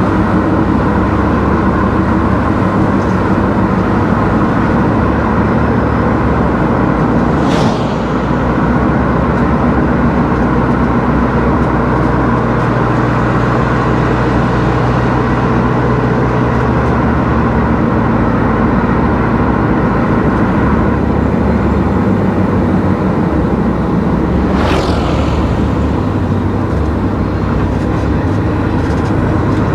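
Car driving on an open road, a steady drone of engine and tyre noise with a low hum. Two brief whooshes pass, the second about seventeen seconds after the first.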